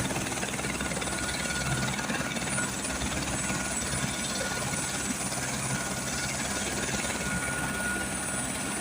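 Helicopter running, with a rapid steady rotor beat and a steady high whine.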